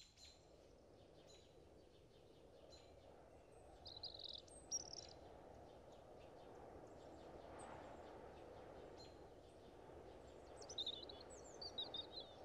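Faint outdoor ambience, close to silence: a steady soft hiss with a few short bird chirps about four seconds in and again near the end.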